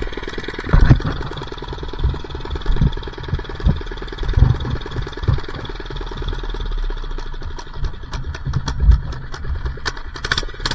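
A minibike's small engine idling steadily, with irregular low thumps and knocks over the top.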